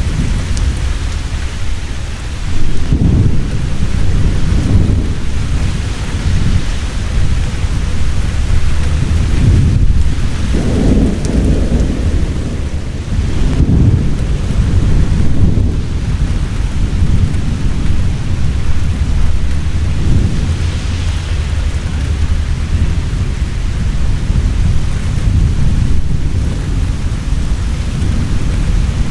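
Heavy rain pouring steadily, with rolls of thunder rumbling deep beneath it, strongest in repeated swells a few seconds in and again around the middle.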